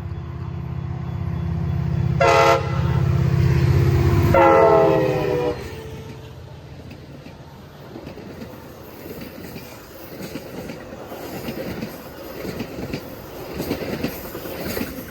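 Metra commuter train passing: the diesel locomotive's chime horn sounds a short blast, then a longer one about two seconds later, over a building engine rumble that drops away after about five and a half seconds. The coaches follow with wheels clicking and rattling over the rail joints.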